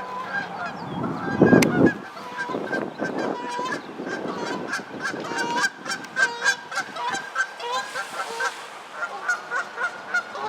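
A flock of geese honking: many short, repeated calls overlapping throughout, with a brief louder rush of noise about a second and a half in.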